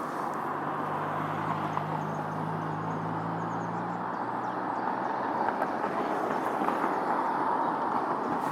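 A bicycle rolls along a path, its steady tyre and ride noise picked up by a recorder mounted on the bike. A low vehicle engine hum is heard for about the first four seconds, then fades away.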